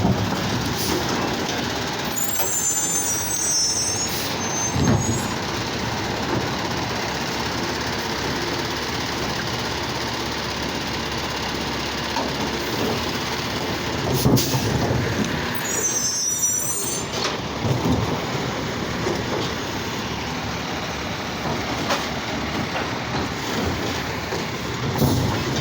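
Garbage truck running, its engine noise continuous, with a few knocks and two brief high, wavering squeals, the first a couple of seconds in and the second about sixteen seconds in.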